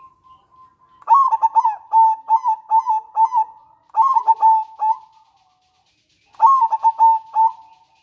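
Zebra dove (perkutut) cooing: a quick run of short, staccato coo notes starting about a second in and lasting about four seconds, then a pause and a shorter run near the end.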